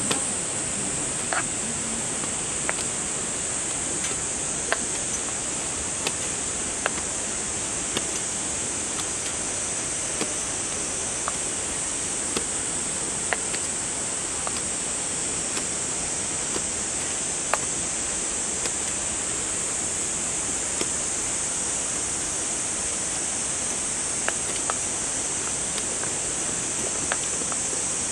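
Cicadas singing in a steady, high-pitched chorus over an even rushing hiss, with light ticks about once a second.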